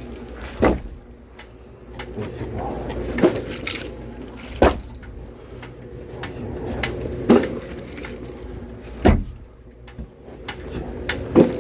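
Split firewood being handled and set down: six sharp wooden knocks a second or two apart, with softer clatter between them.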